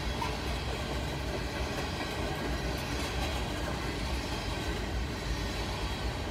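Coal hopper cars of a BNSF freight train rolling past: a steady rumble of steel wheels on the rails.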